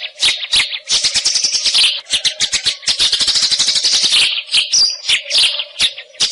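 White-rumped shama (wild murai) singing a fast, dense run of harsh, scratchy chattering notes, broken by a short clear whistle about five seconds in.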